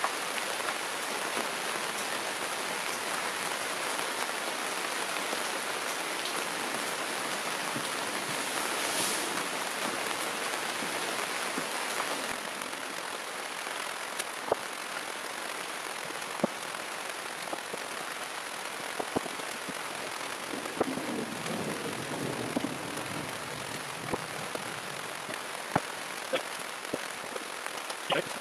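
Rain falling steadily. About halfway through it eases a little, and scattered single drips tick sharply on a hard surface.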